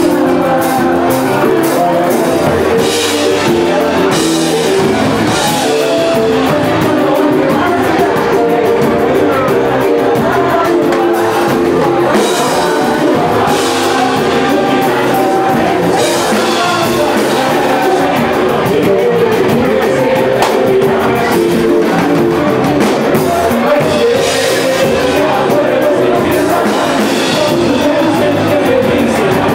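Live samba band playing: singing over a dense, fast percussion rhythm, echoing in a large room.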